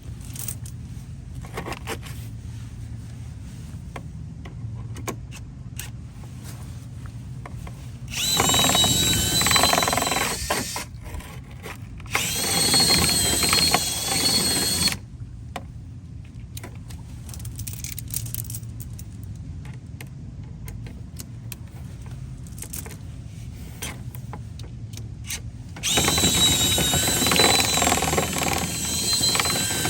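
Power drill running in three bursts of a few seconds each, with a steady high whine. Between the bursts there is a low rumble and scattered clicks.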